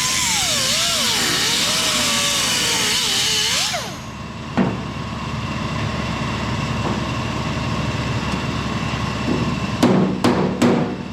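Angle grinder cutting into the rusty steel fender, its whine rising and falling under load, then cutting off about four seconds in. A single knock follows, and near the end three quick hammer blows on the sheet metal.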